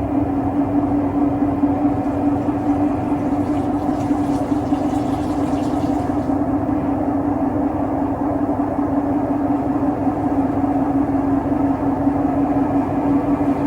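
Siemens WM14T490 washing machine running with its drum turning steadily: a loud, even roar with a steady hum over a rumble, the noise of failed drum bearings.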